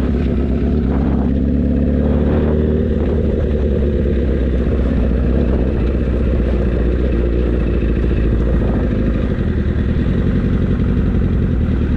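Motorcycle engine running steadily at low revs, close to the microphone.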